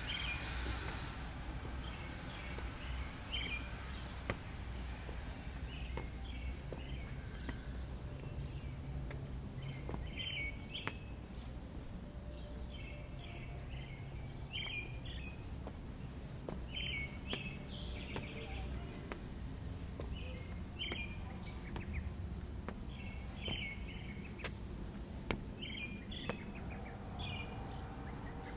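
A bird chirping in short, repeated phrases about every two seconds over a steady low city rumble. A hissing noise fades out in the first second.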